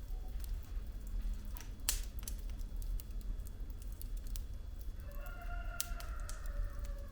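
Wood fire burning in a fireplace: logs crackling with frequent sharp pops over a low steady rumble, one pop louder about two seconds in. About five seconds in, a thin whistle comes from the burning wood for a couple of seconds, dipping slightly in pitch.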